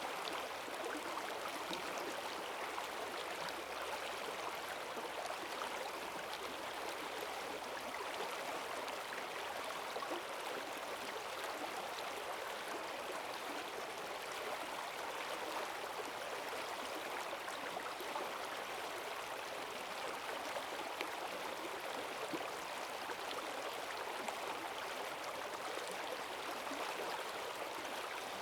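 Forest stream running high after heavy rain, its strong current rushing and gurgling steadily over the stones.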